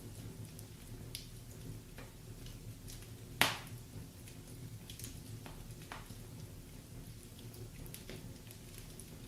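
Wood fire crackling in a fireplace: a low steady rumble of the burning logs with scattered small pops, and one loud sharp crack about three and a half seconds in.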